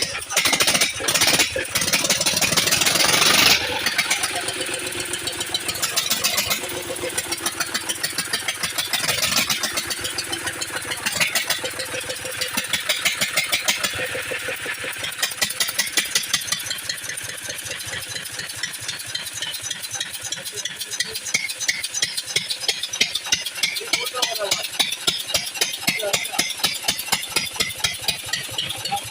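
Lister-type diesel engine being hand-cranked and starting: a loud noisy stretch for the first few seconds, then the engine running on its own with rapid, even exhaust beats.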